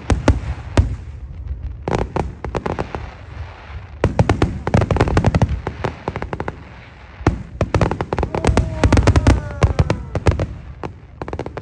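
Aerial fireworks display: shells bursting with sharp bangs and crackling, coming in several rapid volleys with short lulls between them.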